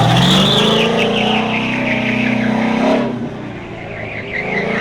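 Cam-only LS3 V8 of a squarebody Chevrolet C10 autocross truck running hard, its tires squealing in a wavering note through a corner. About three seconds in, the engine eases off and the squeal fades. Near the end the engine picks up again and the tires squeal once more.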